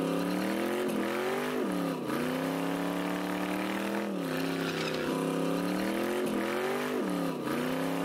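A car engine revving hard during a tire-smoking burnout, its pitch climbing and then dropping sharply several times as the throttle is worked.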